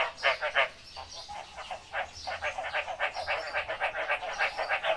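Frogs calling in a fast pulsed series, about five pulses a second. The calling goes quieter about a second in, then picks up again.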